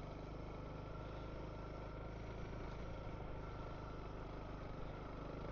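Honda CRF300L's single-cylinder engine running at steady, low revs, with no change in pitch or level.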